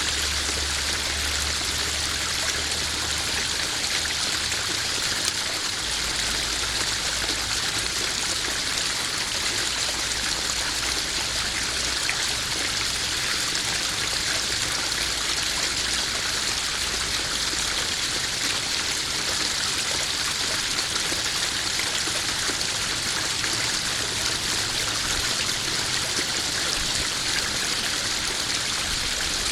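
Small garden waterfall splashing and trickling steadily into a koi pond, an even hiss of running water.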